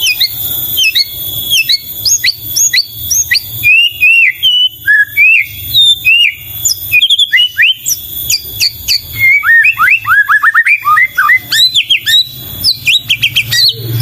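White-rumped shama (murai batu) singing loudly: a fast, varied stream of whistles and chirps, with a quick run of falling notes about ten seconds in and rapid repeated notes near the end.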